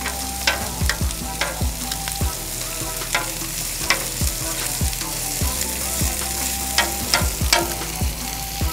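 Sliced onions and green peppers sizzling in bacon grease on a steel flat-top griddle, a steady hiss, while metal tongs toss and break them up, clicking and scraping on the griddle plate every half second or so.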